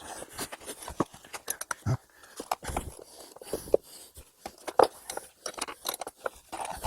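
Irregular clicks, knocks and light scraping of hands-on work assembling a fireclay-brick lintel: bricks, mastic and tools being handled and fitted.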